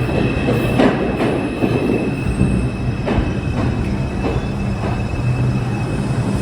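R142 subway train running: a steady rumble with a low motor hum and a thin high wheel squeal, broken by a handful of sharp clicks from the wheels over rail joints.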